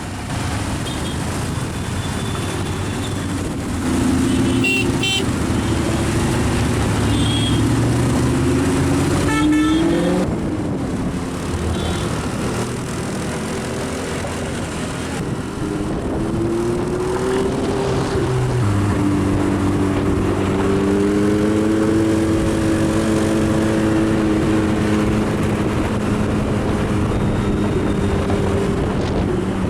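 Car engines running in road traffic, the engine note rising a few times and then holding steady through the second half. Car horns toot briefly a couple of times in the first third.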